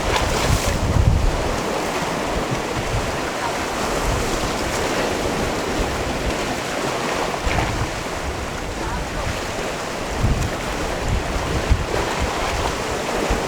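Sea waves washing against a rocky shore in a steady rush of surf. Wind buffets the microphone in low gusts near the start and again from about ten seconds in.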